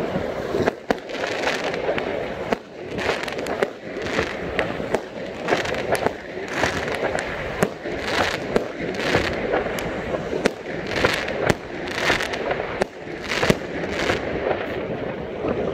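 Aerial fireworks going off overhead: a steady, irregular run of sharp bangs from shells bursting, several close together at times, with crackling between them.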